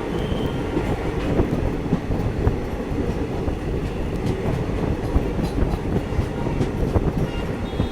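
Passenger train coach running along the track, heard from on board: a steady rumble of wheels on rail with scattered clicks from the rail joints.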